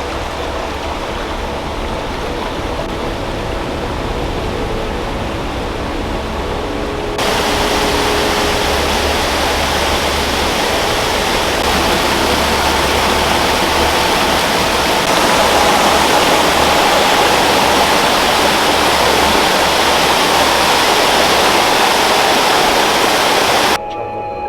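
Loud, steady rushing water, as of a mountain stream or cascade over rocks. It steps louder at cuts about seven and fifteen seconds in and stops abruptly near the end.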